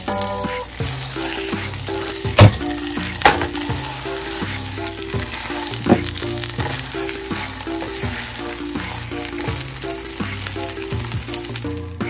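Scallion pancake sizzling in oil in a nonstick frying pan. A spatula knocks sharply against the pan three times, the loudest about two seconds in. Background music plays under it.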